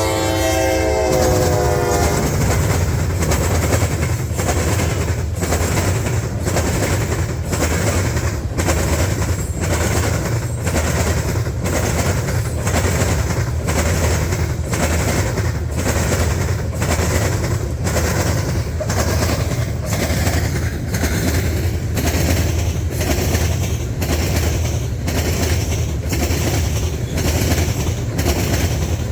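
CSX train passing close by: its locomotive horn chord drops slightly in pitch and dies away about two seconds in, leaving a steady rumble with the regular clickety-clack of wheels over rail joints, about two clicks a second.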